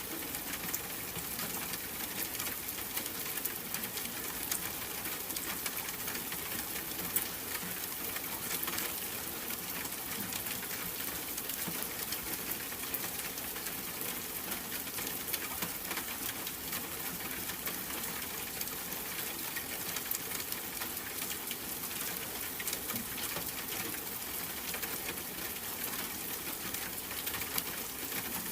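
Steady rain: an even hiss of rainfall with a dense, fine patter of drops.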